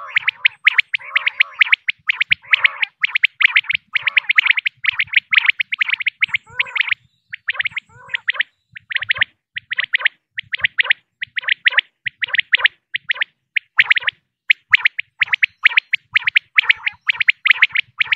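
Female common quail calling: a rapid series of short, high chirping notes, repeated over and over in quick groups, with a brief pause about seven seconds in.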